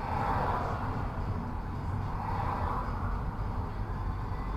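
Road and engine noise of a moving car as heard inside the cabin through a dashcam's built-in microphone: a steady low rumble with tyre hiss that swells twice.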